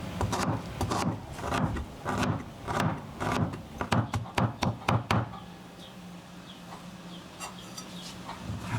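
A run of sharp knocks, irregular and about two a second, lasting about five seconds. After that comes a quieter stretch with a steady low hum and a few faint clicks.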